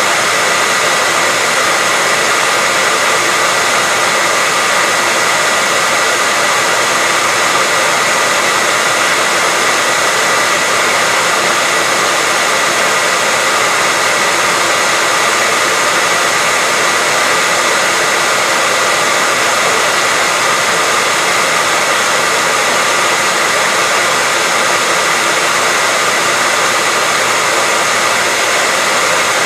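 Hairdryer running steadily: an even blowing hiss with a constant whine from its fan motor, unchanging throughout.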